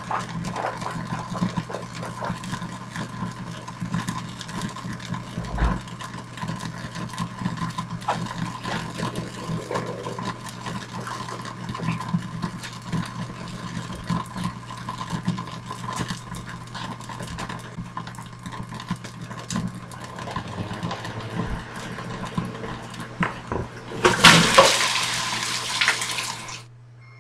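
A burning smartphone crackling and popping inside a microwave, over a steady electrical hum. Near the end a loud rushing hiss lasts about three seconds and cuts off suddenly.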